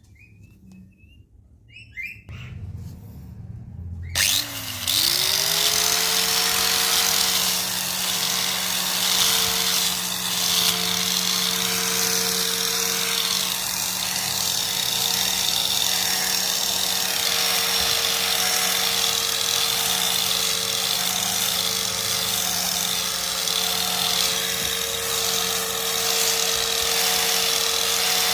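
A homemade grass cutter's motor switching on about four seconds in, its pitch rising over about a second as it spins up, then running steadily at a constant speed. Short bird chirps are heard before it starts.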